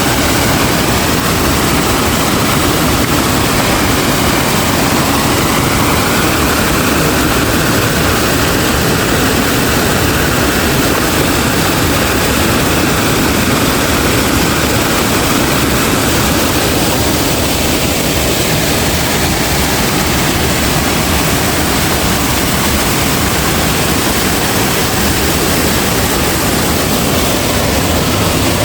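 Heavy rain pouring steadily, with strong wind, making a dense, even roar.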